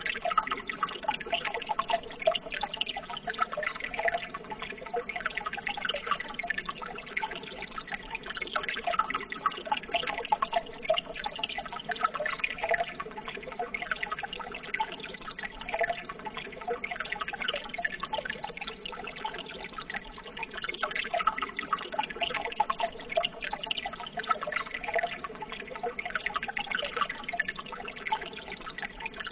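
Running water babbling steadily, full of small splashes and drips, as from a trickling stream.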